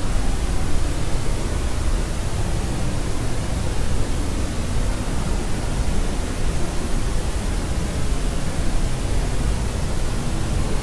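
Steady white noise for soothing a crying baby: an even rushing hiss, heaviest in the low end, with no changes.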